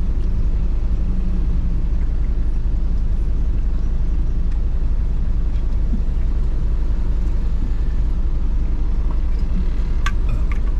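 Steady low rumble of a road vehicle's engine and road noise.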